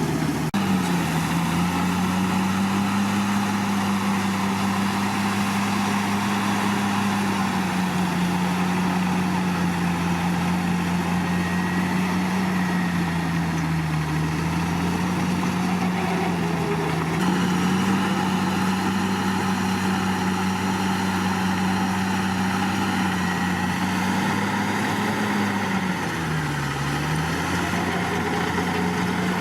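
Komatsu D61PX bulldozer's diesel engine running steadily, its pitch sagging briefly a few times, most deeply about 27 seconds in.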